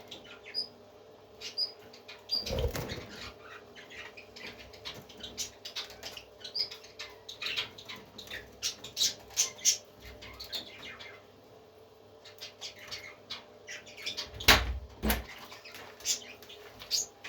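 Parrots giving many short, scattered chirps and squeaks, with a dull thump about two and a half seconds in and two more near the end.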